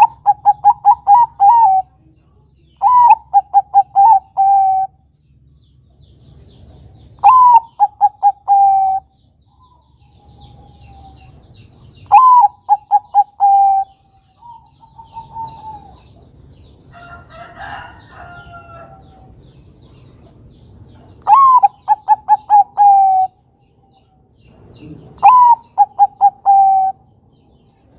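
Zebra dove (perkutut) of the Thai 'Bangkok' song type singing: about six phrases, each a rising first note followed by a quick run of five or six short staccato coos that step slightly down in pitch, with pauses of a few seconds between phrases.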